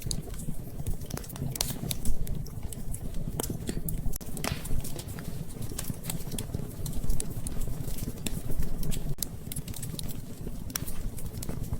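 Wood fire in a fireplace crackling, with irregular sharp pops and snaps a few times a second over a steady low rumble.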